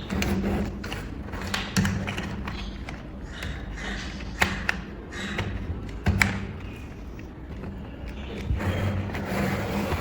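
Plastic building bricks being handled and snapped together: sharp clicks, the loudest about two, four and a half and six seconds in, with handling noise between.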